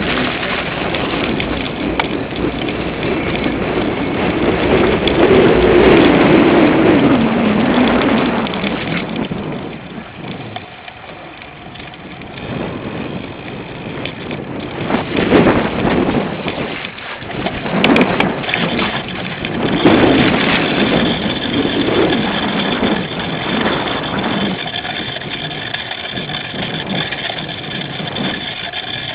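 Wind buffeting a bike-mounted camera's microphone, mixed with the rattle and jolting of a cyclocross bike riding over rough ground. The noise surges and eases unevenly, with a quieter stretch about a third of the way in.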